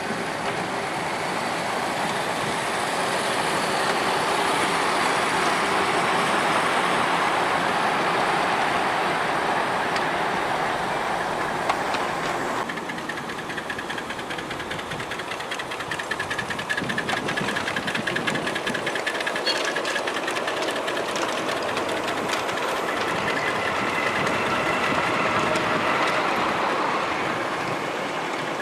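Miniature railway train running along the track with a steady rumble; the sound changes abruptly about halfway through, followed by a spell of rapid ticking.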